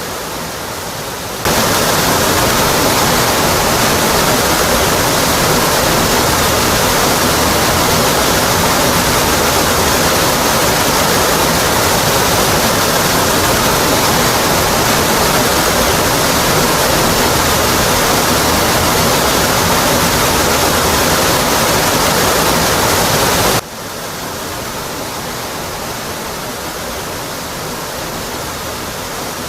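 Waterfall plunging down a rock cliff face: a steady, dense rush of falling water. It turns suddenly louder and fuller about a second and a half in, then drops back abruptly about six seconds before the end.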